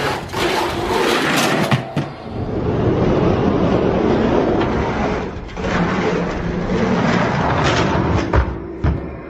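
Hot Wheels die-cast monster trucks rolling down a plastic track side by side, a steady rolling rattle of wheels on plastic. A few sharp knocks break through, the loudest about eight seconds in.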